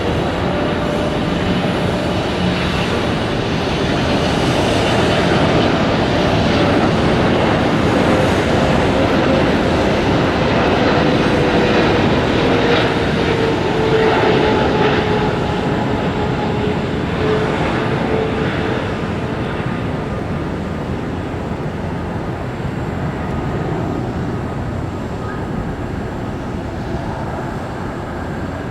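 A jet airliner's engines as it passes: a loud, steady rush with a tone slowly sliding down in pitch, fading somewhat over the last several seconds.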